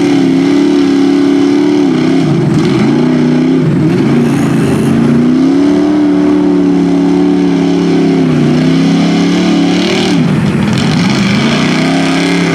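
Lifted Chevy mud truck's engine running hard while bogging, its revs rising and falling several times as the throttle is worked, with a sharp dip and climb again about ten seconds in.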